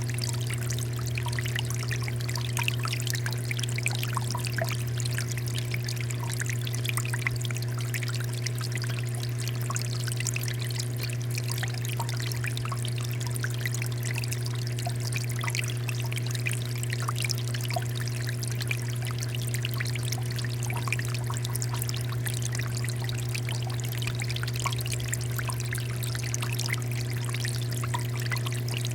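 Water fountain running: water pouring and splashing steadily, over a strong, steady low hum.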